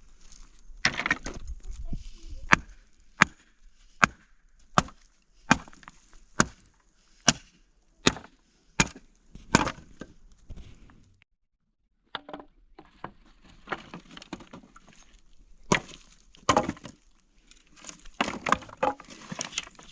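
Wood being chopped: a steady run of about ten sharp strikes, one roughly every 0.8 seconds, then after a short break a few more irregular knocks near the end.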